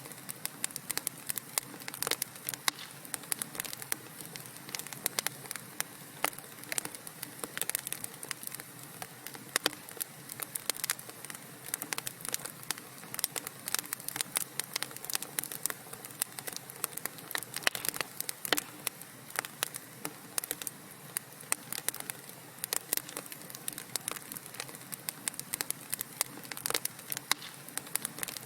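Wood fire crackling in a fireplace: dense, irregular crackles and pops over a steady soft hiss.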